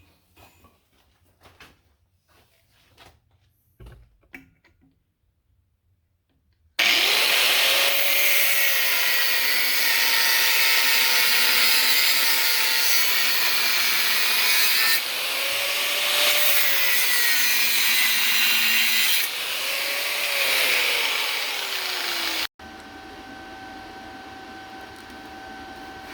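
A power tool cutting or grinding metal, loud and hissy, its motor pitch sagging and recovering as it bites. It starts about seven seconds in after some light knocking, runs in three stretches, then cuts off abruptly near the end into a quieter steady hum.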